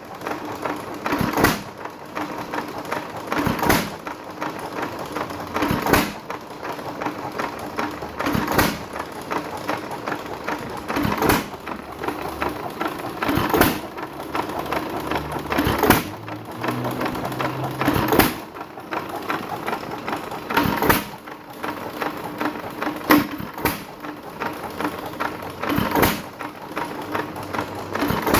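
Associated 1 3/4 hp antique stationary hit-and-miss engine running, firing with a sharp exhaust bang about every two to three seconds and coasting between firings with a steady clatter of valve gear and moving parts.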